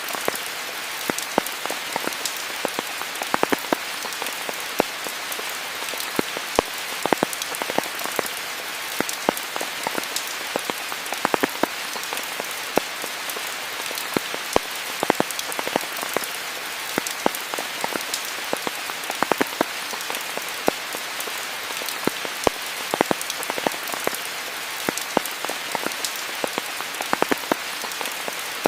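Steady rain falling, a dense even hiss scattered with many sharp individual drop hits.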